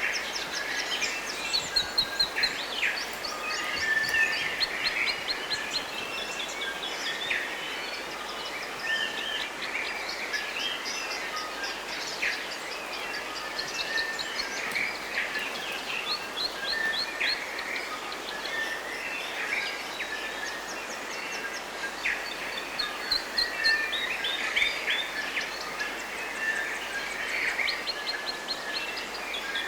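A chorus of several forest birds singing: overlapping chirps, trills and repeated quick notes, over a steady background hiss.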